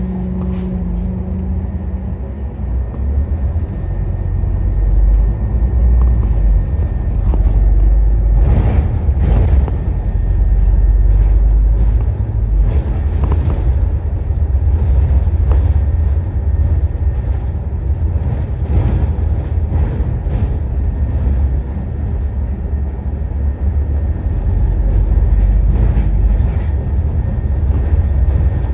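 Scania N230UD double-decker bus heard from inside while under way: a steady low engine and road rumble, louder from about four seconds in, with scattered knocks and rattles from the body.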